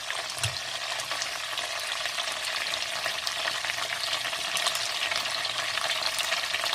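Vienna sausages and carrot pieces frying in oil in a nonstick pan: a steady sizzle with fine crackles and pops.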